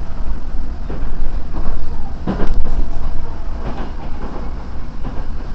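Odakyu 4000-series electric train running at speed, heard inside the carriage: a steady low rumble of wheels on track with a few brief louder surges.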